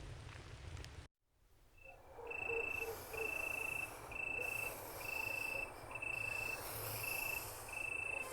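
A low rumbling noise cuts off about a second in. Then crickets start chirping: a run of seven shrill trills, each under a second long and about a second apart, over a soft hiss.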